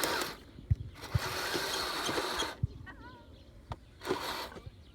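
Blizzard tracked snow groomer driving on sand: surges of hissing machine noise come and go, with scattered low thumps and clanks.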